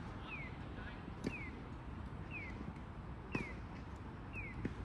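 Tennis balls struck by rackets: a few sharp hits a second or two apart, as in a rally. Under them, a short falling chirp repeats evenly about once a second.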